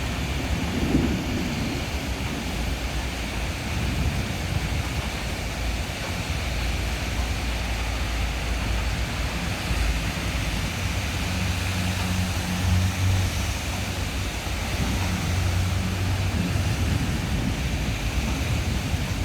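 Heavy rain pouring steadily during a thunderstorm, with a low rumble underneath that swells through the middle and later part.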